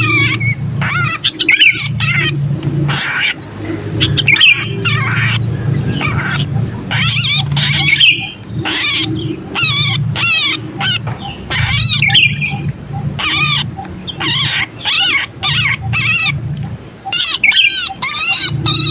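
Sooty-headed bulbul giving rapid, harsh, repeated distress calls, the cries of a bird that has been caught or pinched, which draw other bulbuls in to mob. The calls come in quick unbroken strings of arching chirps.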